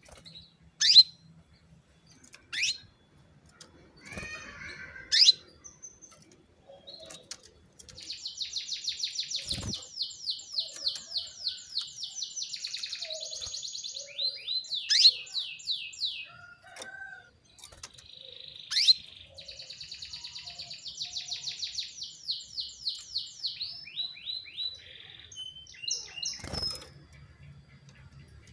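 Female domestic canary calling: sharp single chirps here and there, and two long rapid trills of five to six seconds each, one about a third of the way in and one just past the middle. These are the calls used to rouse male canaries into singing.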